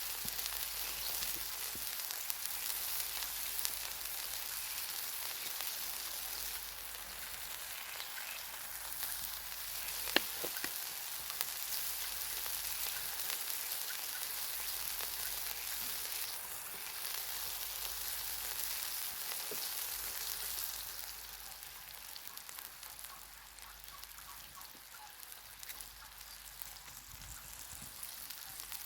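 Food sizzling over a wood fire: a steady crackling hiss that softens about 21 seconds in, with a single sharp click about 10 seconds in.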